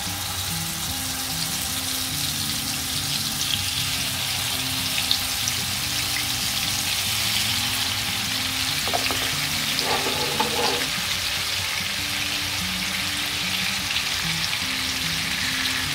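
Skewered, yogurt-marinated chicken tikka pieces shallow-frying in hot oil in a frying pan: a steady sizzle.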